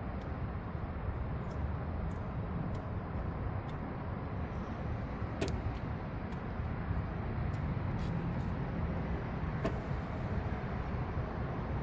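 Light clicks and taps of a socket and extension against metal under the hood, two sharper ones about five and a half and nine and a half seconds in, over a steady low background rumble.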